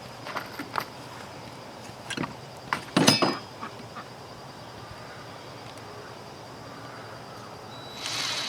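A few light knocks and clicks from handling wood and screws between drill runs, the loudest about three seconds in. Near the end the power drill starts to spin up.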